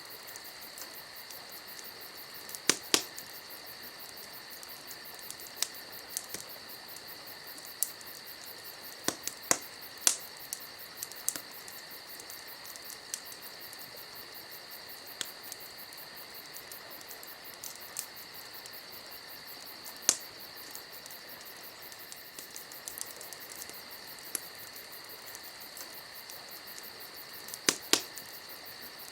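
Campfire crackling with scattered sharp pops, several coming in quick pairs, over a steady high chirping of insects.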